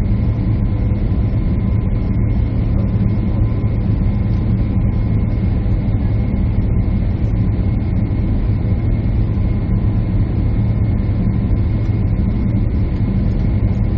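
Steady jet airliner cabin noise: a constant low engine and airflow drone with faint steady whines above it, unchanging throughout.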